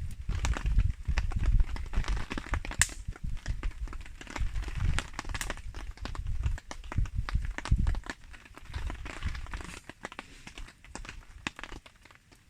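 Wood campfire crackling with many irregular pops and one sharp snap about three seconds in, with rain falling. Low thuds run under it and ease off after about eight seconds.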